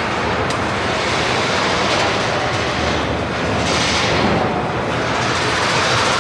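Steady, loud machinery noise on a truck assembly plant floor, with a hiss that swells up about four seconds in and fades.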